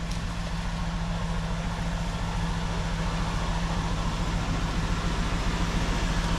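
A motor vehicle's engine idling steadily with a low, even hum, slowly growing a little louder.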